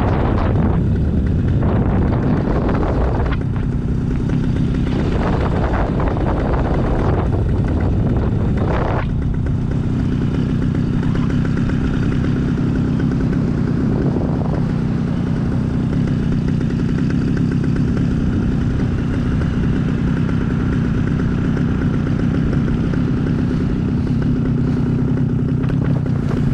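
Small aircraft engine running steadily at idle under loud wind rush across the microphone, throttled back to simulate an engine failure. The engine sound stops abruptly at the very end.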